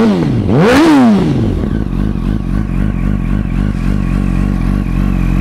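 2008 Yamaha R1's 1000cc inline four-cylinder engine revved twice in quick succession in the first second, the pitch shooting up and dropping back each time. It then settles into a steady idle.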